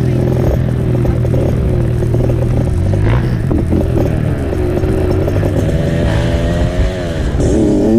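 Dirt bike engine running on the trail, its pitch rising and falling with the throttle.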